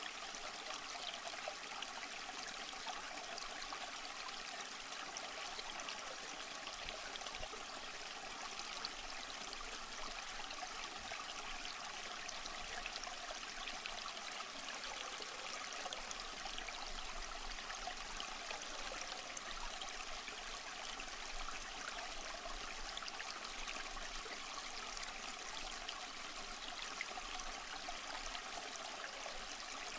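Small stream flowing and trickling over rocks, a steady, even water sound with a lot of high splashing.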